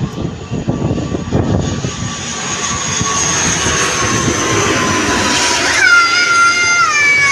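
An airplane passing low overhead: its engine's steady whine slowly drops in pitch as the noise grows louder. Near the end a long high call slides down in pitch over it.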